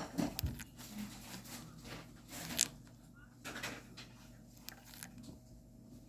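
Pet parrot making short scratchy, raspy noises, a handful of separate bursts with the loudest about two and a half seconds in.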